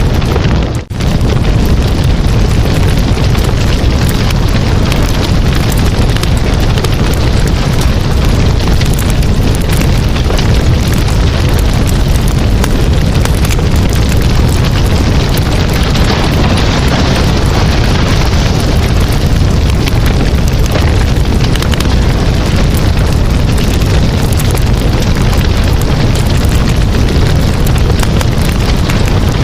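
Campfire burning with a steady, loud low rush and constant fine crackling and popping of the wood. The sound drops out very briefly about a second in.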